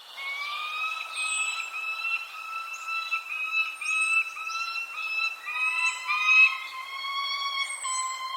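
Birds calling: a continuous chain of short, pitched notes, joined about halfway through by a second, slightly lower voice. Thin high chirps dropping in pitch come every second or so. The sound starts suddenly after a brief gap.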